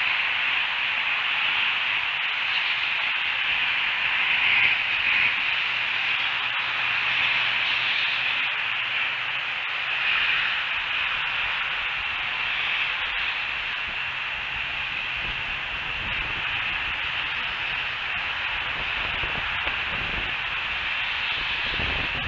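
Steady hiss of outdoor ambient noise on the nest camera's microphone, with a low rumble in the last few seconds.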